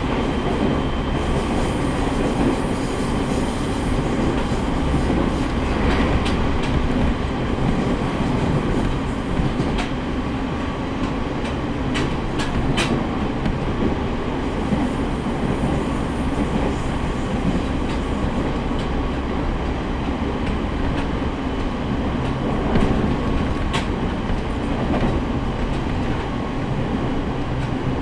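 On-board running sound of a JR East E501 series electric train under way: a steady rumble of wheels on rail, with several sharp clicks as the wheels pass over rail joints.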